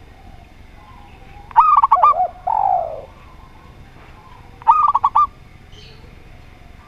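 Doves cooing: a burst of quick staccato notes followed by a longer falling coo, then a second quick burst of notes about three seconds later.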